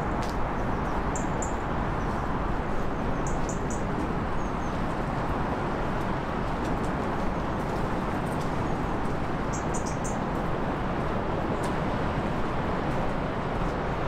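Steady, even outdoor rush with short high bird chirps in quick clusters of two to four, a few times.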